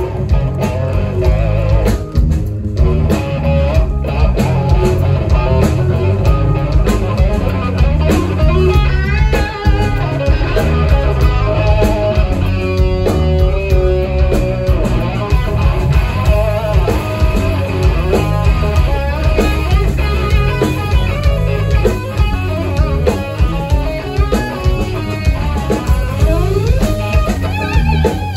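Live rock band playing, an electric guitar lead over bass and drums with a steady beat.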